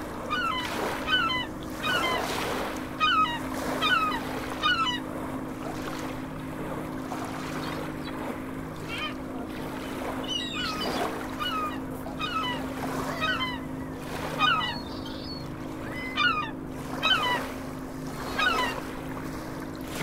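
Birds calling over and over, short calls repeating roughly once a second, over a steady low hum.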